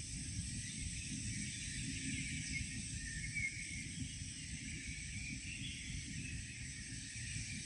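Faint, scattered bird chirps over a steady hiss and a low rumble of background noise.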